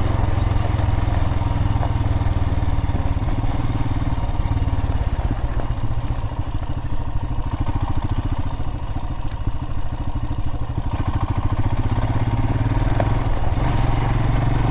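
Adventure motorcycle engine running while riding a dirt road. The throttle eases off through the middle, leaving a lower, pulsing run, and the engine pulls again near the end.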